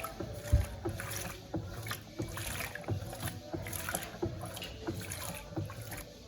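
Electrolux LTC07 top-loading washing machine agitating towels in water during a pre-wash, with the water sloshing and swishing in irregular strokes two or three times a second.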